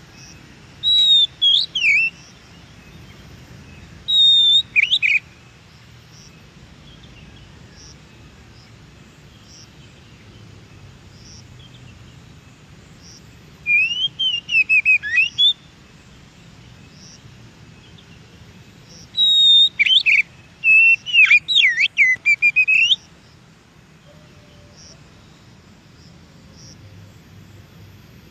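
Oriental magpie-robin (kacer) singing short bouts of clear, sliding whistled phrases, four bouts with long pauses between them over a faint steady hiss.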